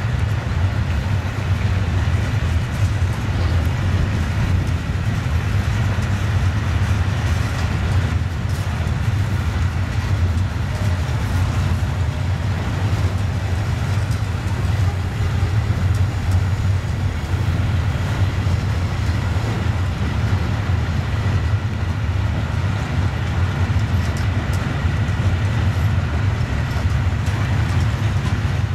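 Freight train of silo wagons rolling slowly past, a steady low rumble of wheels on the rails.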